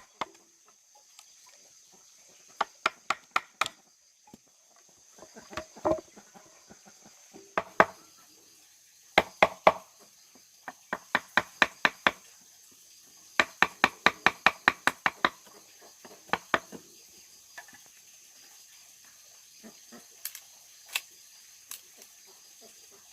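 Bursts of rapid chopping strikes, about five a second, with pauses between the bursts. A steady high insect drone runs underneath.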